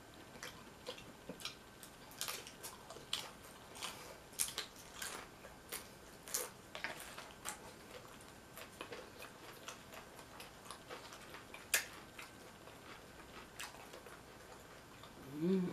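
Close-miked eating of nachos: irregular crisp crunches and mouth clicks as tortilla chips are chewed, with chips picked from the bowl by hand. One sharper click stands out about two-thirds of the way through.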